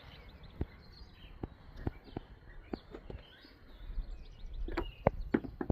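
Outdoor ambience with faint bird chirps and a series of irregular light clicks or taps, more of them close together near the end.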